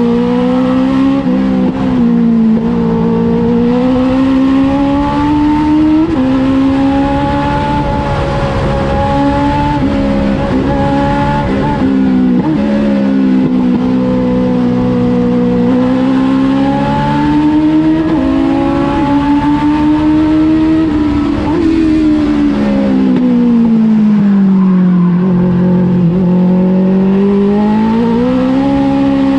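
A Legends race car's Yamaha 1250 cc four-cylinder motorcycle engine runs hard at speed. It is loud and continuous, its pitch rising and falling slowly with the throttle. The note sinks to its lowest near the end, then climbs again.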